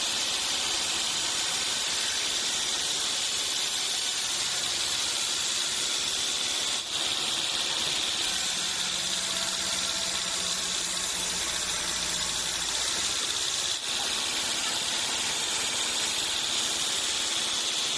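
Sawmill saw cutting through teak wood: a steady, high-pitched, hissing whine, broken by two brief dips about seven and fourteen seconds in.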